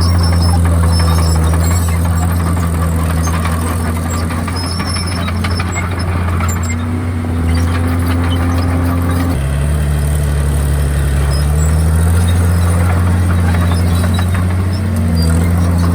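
Komatsu D51PX bulldozer's diesel engine working, its pitch rising and falling as the revs change, with a clear shift about halfway through.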